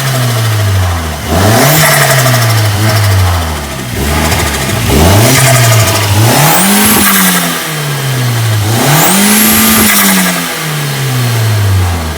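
Car engine revving through its newly installed exhaust, climbing and dropping back three times, each fall in revs slower than the rise.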